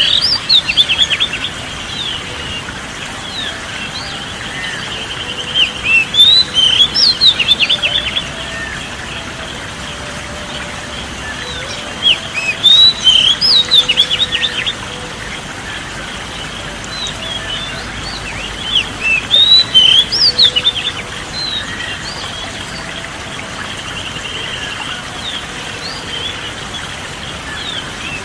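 Songbird singing in four bursts of rapid, high sweeping chirps a few seconds apart, over a steady high hiss of background ambience.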